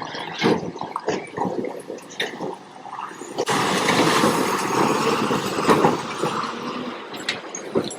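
Water and mud splashing and squelching in irregular bursts, then a louder rushing splash from about three and a half seconds in that lasts a few seconds and eases off.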